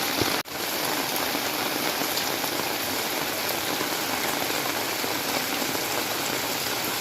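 Steady downpour of rain, a dense even hiss throughout; the sound cuts out for an instant about half a second in.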